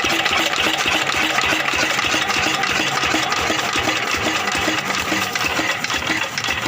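Small engine of about 10 horsepower running steadily, with an even pulsing beat.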